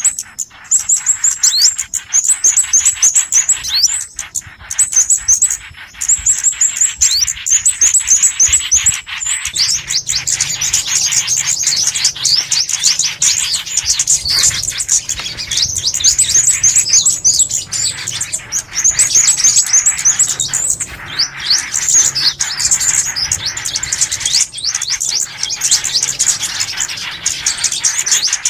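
Recorded songbird calls used as trapping lure: high-pitched, rapid chirping in short repeated phrases with brief gaps, becoming a denser, continuous chatter about ten seconds in.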